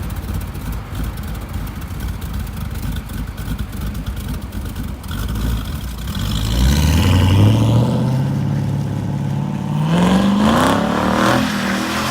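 A car engine with a low rumble, then about six seconds in it revs up in a long rising pull. After that the revs waver up and down as the car is driven hard.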